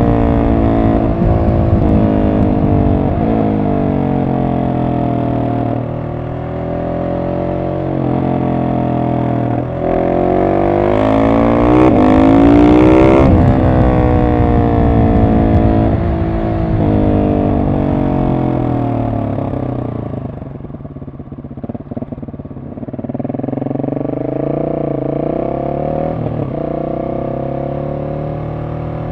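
Husqvarna 701 SM's single-cylinder engine through a de-catted Arrow exhaust with the dB killer in, its revs climbing and falling over and over as the bike is ridden through the gears. It revs highest and loudest about ten seconds in, then drops to a low, quieter run for a couple of seconds before pulling up again.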